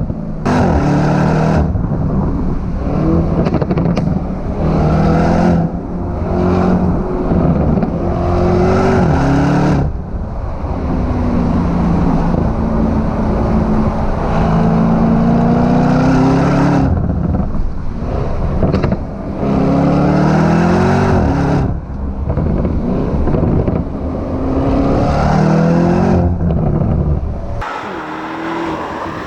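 High-performance sports car engine accelerating hard through the gears, its pitch climbing and dropping back at each gear change, with short lifts of the throttle between pulls.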